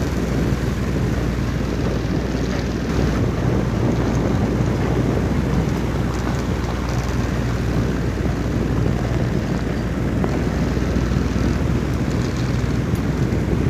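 Wind blowing steadily, a deep, even rush with no single gust standing out.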